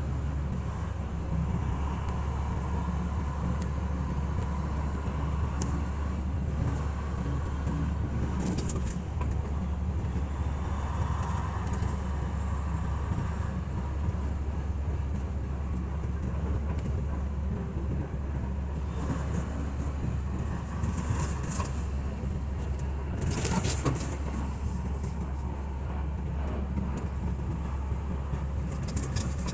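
Steady low engine drone and road noise of a semi-truck on the move, with a few brief rattles about three-quarters of the way through.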